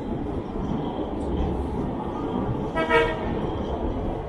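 Steady rumble of a moving train, with one short horn toot about three seconds in.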